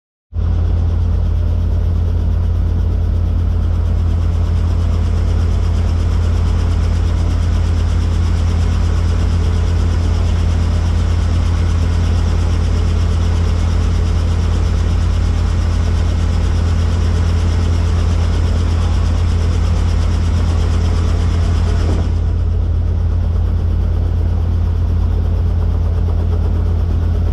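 Helicopter running: a loud, steady, unbroken drone of rotor and engine, with the upper hiss dropping slightly near the end.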